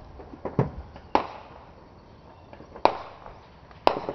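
Fireworks going off: four sharp bangs at uneven intervals, each trailing off in a short echo, the last two the loudest.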